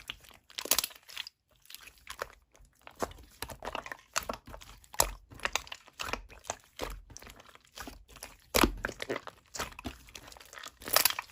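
Slime being squeezed and poked by hand, making irregular crackles and crunchy clicks.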